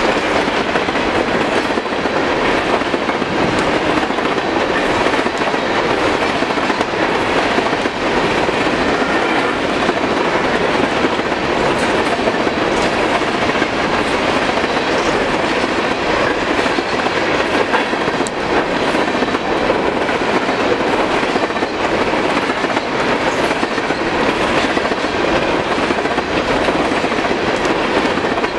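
Empty open-top coal hopper cars of a long freight train rolling past at speed. The steel wheels on the rails make a steady, loud rolling noise with frequent clicks.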